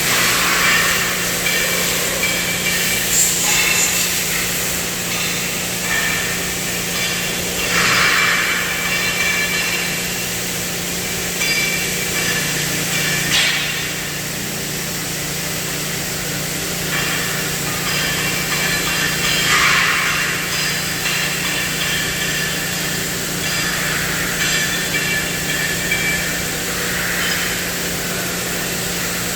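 CNC cutting machine at work on steel: the torch gives a steady hiss over a constant hum, with louder rushes of hiss now and then.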